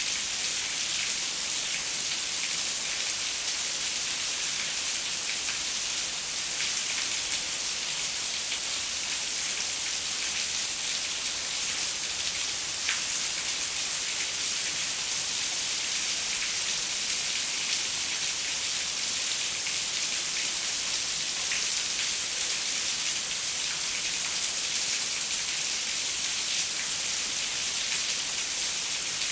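Steady rain falling on a window, an even hiss with scattered drop ticks.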